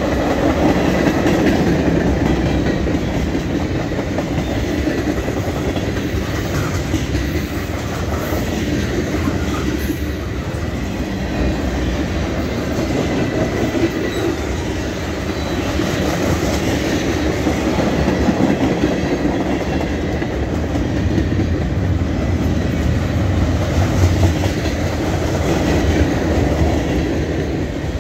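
Freight train of tank cars and covered hoppers rolling past: steel wheels running steadily on the rails with a clatter over the joints.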